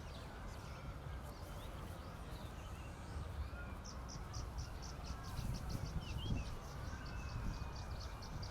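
Outdoor ambience: a steady low rumble with a rhythmic high-pitched chirping, about three pulses a second, setting in about four seconds in, and a few faint short chirps.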